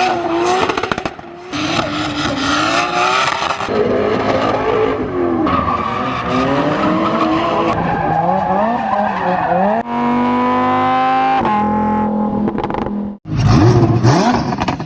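Drift cars revving hard with tyres squealing, in short clips cut together: the engine pitch rises and falls again and again, and in one clip the engine holds a steady high note for a second or so. The sound breaks off abruptly at the cuts.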